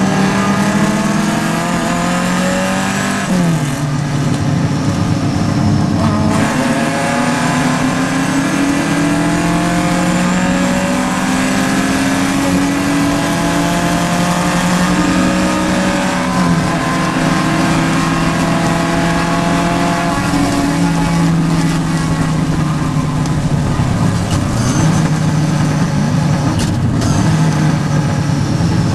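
Vintage Triumph race car engine heard from inside the car, running hard under load: its pitch climbs repeatedly as it accelerates, dropping sharply at gear changes.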